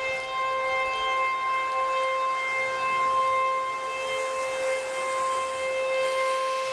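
Outdoor tornado warning siren sounding with a steady held tone.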